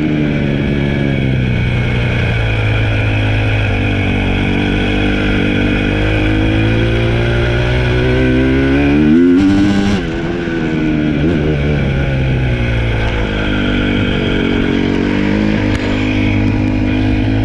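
Dirt bike engine running under way. The revs climb to a peak about nine seconds in, drop off sharply at about ten seconds, then hold steady again.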